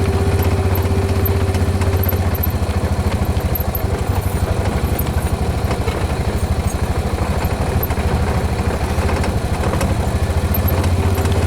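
A vehicle's engine running steadily at a low, even pitch, with a steady hum that drops away a couple of seconds in and comes back near the end.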